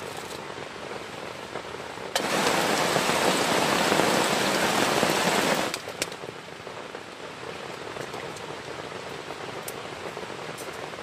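Heavy rain falling steadily. About two seconds in, a much louder rush of noise starts suddenly, lasts about three and a half seconds, and cuts off just as suddenly.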